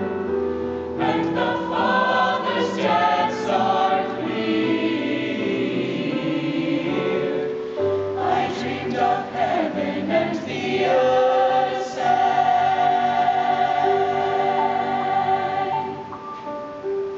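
Youth choir singing in sustained harmony, the chords moving slowly; the lowest voices drop out near the end, leaving a thinner, higher sound.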